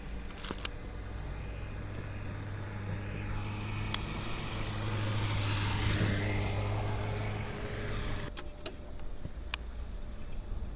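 Road vehicle sounds: a steady low engine hum, with a vehicle swelling past around the middle. The hum stops about eight seconds in. A few sharp clicks are heard near the start, about four seconds in, and after the hum stops.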